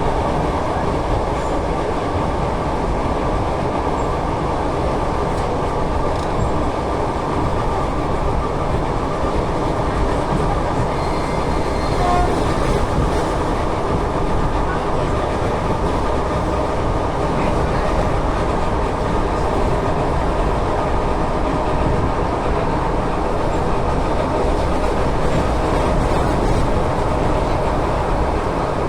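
ET2M electric multiple unit running along the track, heard from inside the carriage: a steady rumble of wheels on rail.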